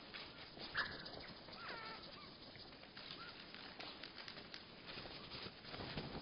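Songbird calls slowed to one-third speed, so they come out lower and drawn out into a few short, odd-sounding curved notes, with many scattered clicks.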